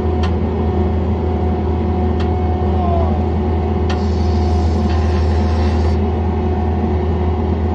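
John Deere 317 skid loader's engine running steadily, with a strong low hum, and a few faint clicks.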